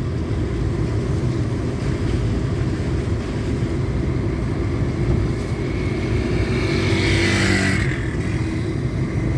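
Steady rumble of a moving road vehicle's engine and road noise. A hissing swell rises and fades about seven seconds in.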